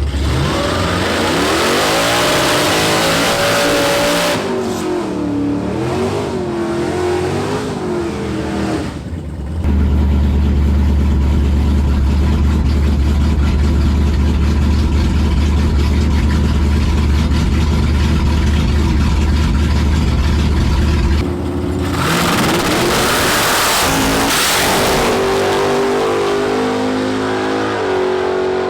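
Drag car's Dodge HurriCrate engine revving hard under acceleration on a drag strip pass. After about ten seconds it settles into a long, steady, loud low drone, and near the twenty-second mark it drops back to lower, stepping revs as the car comes off the throttle.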